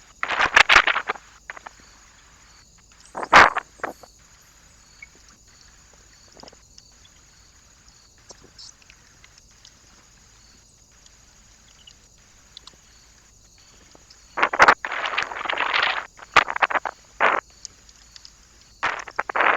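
Irregular bursts of rustling and scratching from animals moving about on a bird feeder: one about a second long at the start, a short one around three seconds in, and a longer cluster in the last third.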